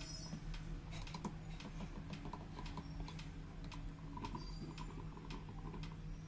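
Irregular light clicks and taps, like typing, over a steady low hum.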